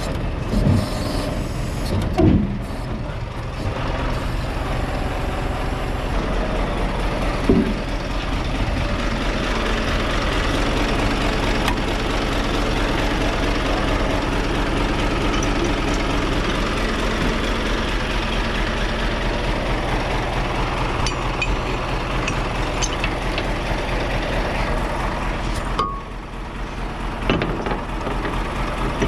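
Scania truck's diesel engine running steadily, with a few short knocks and a brief dip in sound a few seconds before the end.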